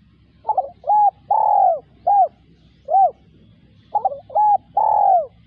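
Spotted dove cooing: two repeated phrases of hollow, arched coo notes. Each phrase has a longer drawn-out note in the middle, and the second phrase begins about four seconds in.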